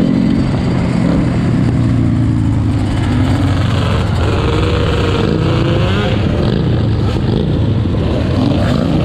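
Several four-wheeler (ATV) engines running loudly together, with revs rising and falling about halfway through.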